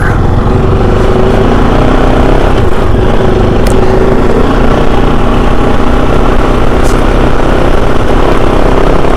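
Kove 450 Rally motorcycle engine running while riding at a steady pace, with a dense rush of low wind noise. The engine note rises a little about a second in and then holds steady.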